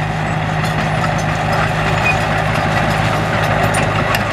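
Heavy construction machine's diesel engine running steadily, a constant low drone.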